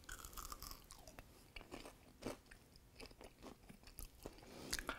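A person biting into and chewing a breaded fish stick: faint, irregular crunches of the breading.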